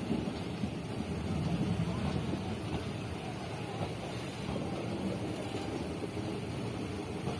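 Indian Railways express train's passenger coaches rolling slowly past as it departs: a steady low rumble of wheels on the rails.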